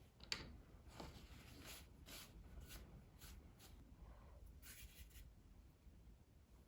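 Faint pencil strokes scratching on sketch paper: short strokes about every half second, with a longer stroke about five seconds in.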